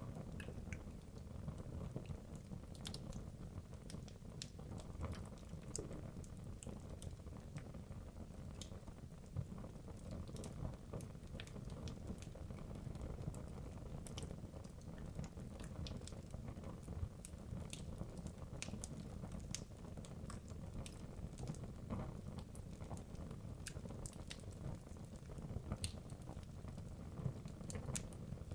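Wood logs burning in a fireplace: a steady low rush of flame with frequent irregular sharp crackles and pops.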